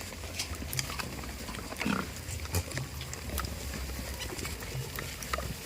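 Goats at close range, with a short grunt about two seconds in and scattered clicks and knocks over a steady low rumble.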